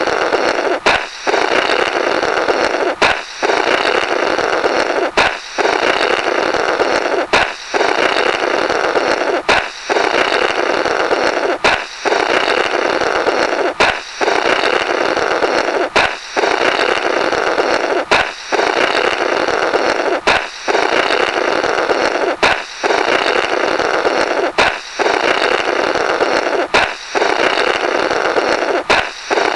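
A balloon popping followed by a comical blown 'blorrrt' through the burst rubber, repeated about every two seconds.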